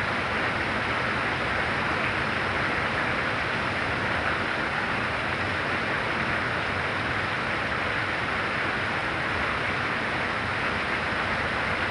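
Very heavy rain falling steadily, an even hiss with no single drops, thunder or other events standing out.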